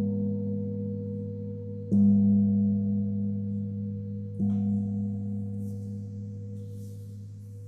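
A large singing bowl struck twice, about two and a half seconds apart, each strike a deep sustained ring that slowly fades. A higher bowl tone keeps ringing steadily underneath.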